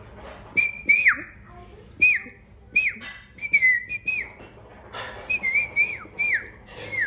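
Baby canary begging calls: a series of about ten short, high chirps, each dropping sharply in pitch, with faint clicks between them.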